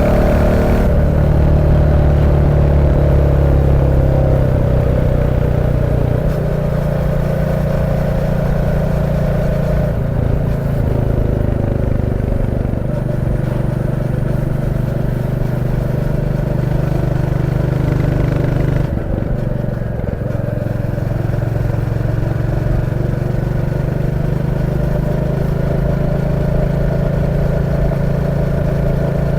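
Royal Enfield Classic 350's single-cylinder engine running steadily while the motorcycle is ridden, its note stepping to a new pitch several times as the speed and gear change.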